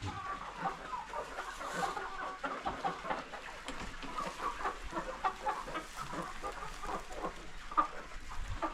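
A flock of chickens clucking inside a coop, many short overlapping calls.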